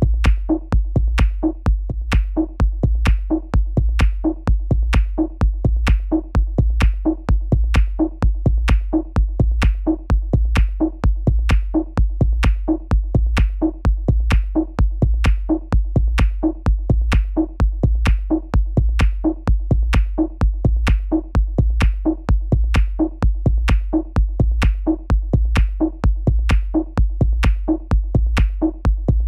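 Techno loop made with Ableton Live's own instruments playing: a drum-machine beat at about two hits a second over a deep bass, with a pitched synth note repeating on each hit.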